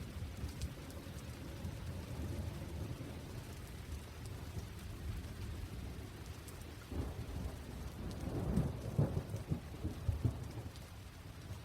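Steady rain with a deep low rumble underneath that swells for a few seconds past the middle.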